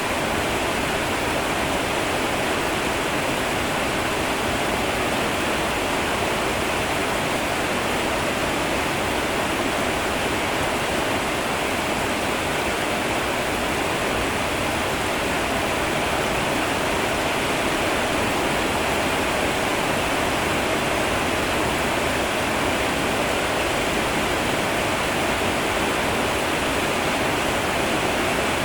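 Steady rain falling, an even hiss with no single drops or pauses standing out.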